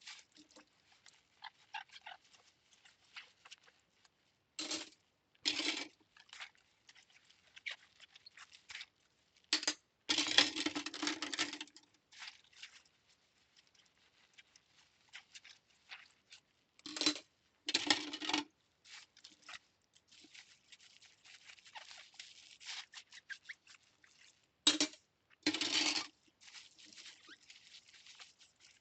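Hand-washing cutlery in a sink: small metal clinks and scrubbing scratches, broken by several short rushes of running water, the longest about two seconds, around ten seconds in.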